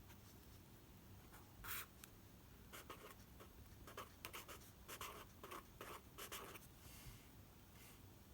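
Faint, irregular scratching strokes, a dozen or so short ones in quick succession, the loudest about one and a half seconds in.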